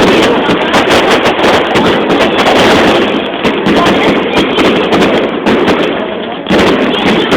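Fireworks crackling and popping in a dense, continuous barrage, loud and close to overloading the microphone, easing briefly about six seconds in.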